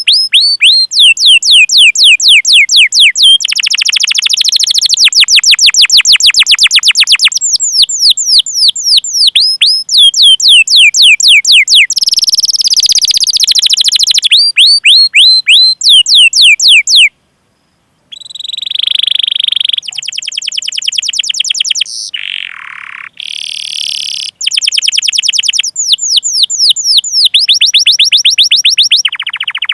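Domestic canary singing loudly: long runs of rapid, downward-sweeping 'cuit cuit' notes alternating with fast rolling trills. The song cuts out briefly about 17 seconds in and resumes.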